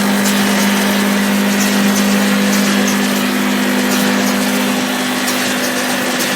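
Puffed snack production line machinery running with a steady hum and a constant whir of noise, with faint scattered ticks.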